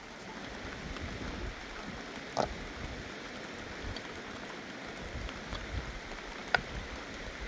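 Steady rain falling, with a couple of sharp ticks of drops or small knocks, the louder one near the end.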